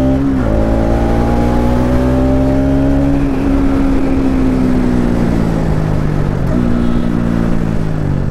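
Bajaj Pulsar NS200's single-cylinder engine running under way, its note breaking briefly about half a second in, a little after three seconds and at about six and a half seconds. Near the end the note falls away as the bike eases off.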